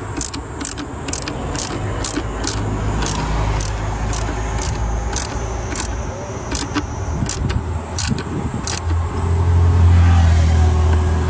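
Mercedes-AMG G63's M157 twin-turbo V8 running, growing much louder near the end as it is revved, with a sharp, regular ticking about twice a second over it.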